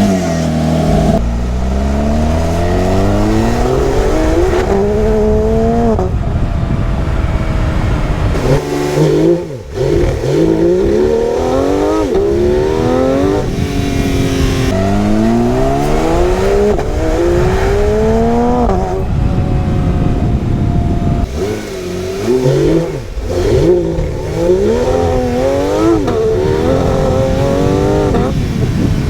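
Porsche 992 GT3's naturally aspirated 4.0-litre flat-six revving hard under acceleration. Its pitch climbs through each gear and drops sharply at quick upshifts, again and again. It dips briefly off the throttle about a third of the way in and again past two-thirds, then pulls up through the gears once more.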